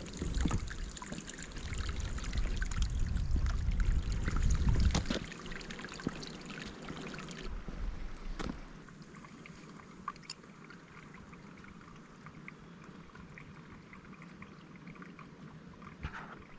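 Steady rush of running water, with a heavy low rumble over it for the first five seconds or so, then settling to a quieter even hiss.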